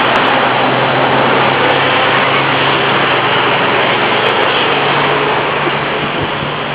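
A vehicle running: a steady low engine hum under a loud, even rushing noise.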